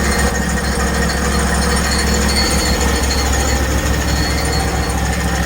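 Gas engine of a Hud-Son portable bandsaw mill running steadily at a constant pitch.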